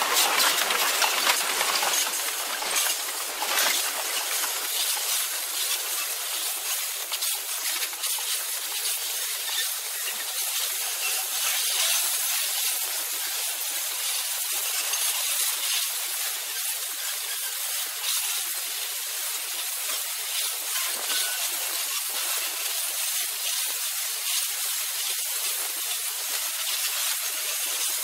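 Freight train hopper cars rolling past, a steady thin hiss of wheels on rail with scattered light clicks and no low rumble.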